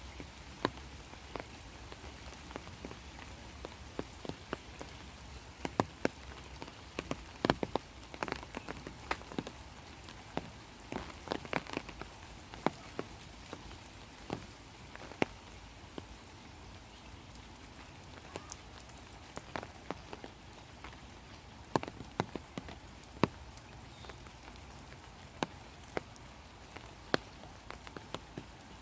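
Rain falling steadily, a soft hiss with many separate drops pattering irregularly, in clusters here and there.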